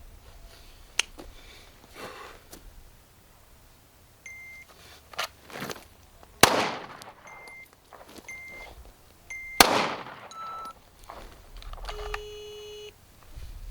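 Two gunshots about three seconds apart, each with a short rolling tail; the second comes just after one of several short, high electronic beeps. A longer, lower beep sounds near the end, and a few faint clicks are scattered through.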